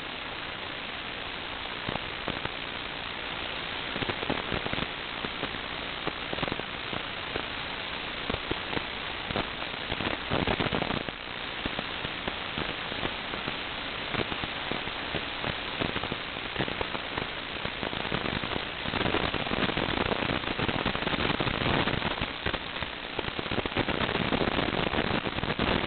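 Steady static hiss with dense crackling, growing louder over the last several seconds.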